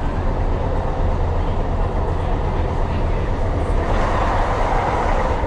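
Tyne & Wear Metro train running on the rails, heard from inside the car: a steady rumble with a low hum, swelling louder about four seconds in before easing again.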